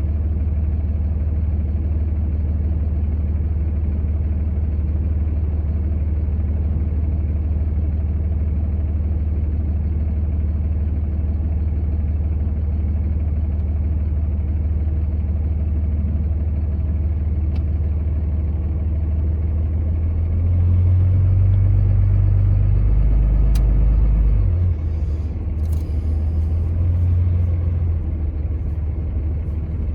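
Steady low rumble of a vehicle on the move, louder for a few seconds about two-thirds of the way through, with a couple of faint clicks.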